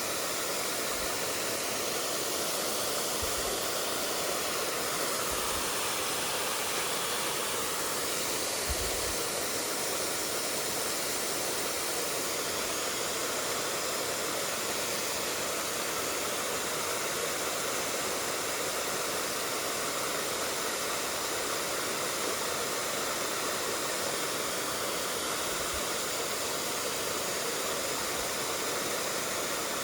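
Steady rushing of a mountain stream running over rocks.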